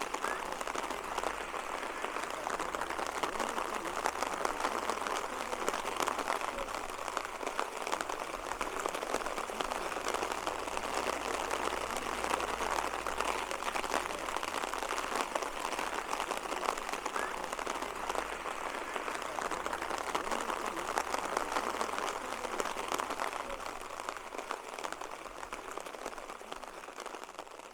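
Steady rain falling, a dense even patter, fading out over the last few seconds.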